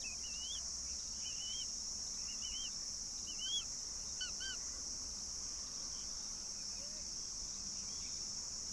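A bird calling in short rising-and-falling chirps, about two a second, which stop about four seconds in, over a steady high drone of insects.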